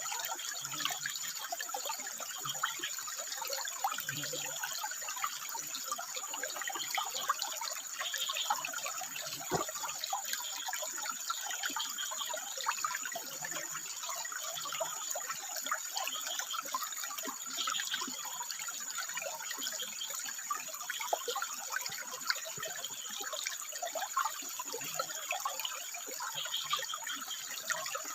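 Water trickling and splashing steadily over rocks, with short low frog croaks now and then and a thin steady high tone.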